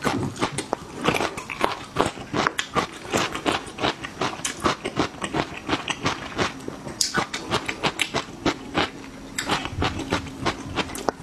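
Close-miked crunching and chewing of raw garlic cloves: a quick, uneven run of crisp crunches and wet mouth clicks.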